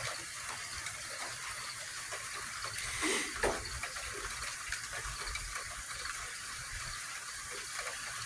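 Steady outdoor background hiss with a low rumble underneath, and a brief louder swell about three seconds in.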